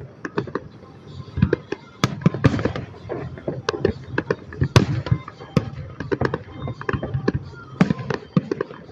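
Fireworks going off in an uneven, rapid series of bangs and crackling pops, several a second.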